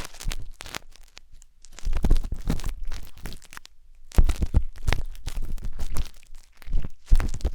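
Wooden skewer scraping and rubbing inside the silicone ear of a 3Dio binaural microphone, heard as close, crackly scratching in bursts with short pauses between strokes.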